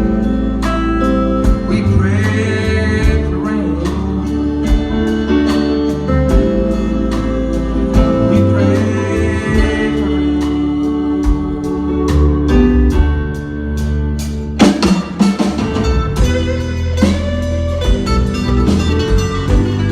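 Live band playing a blues-country song: guitars over a steady drum beat, with sung or held vocal lines faintly present and no clear lyrics.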